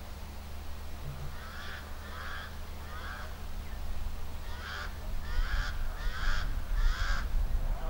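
A bird calling repeatedly: three short calls, a short pause, then four more in an even rhythm.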